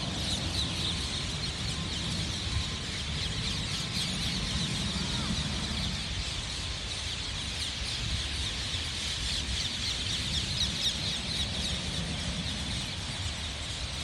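Many small birds chirping at once in a dense, continuous chorus, over a steady low rumble.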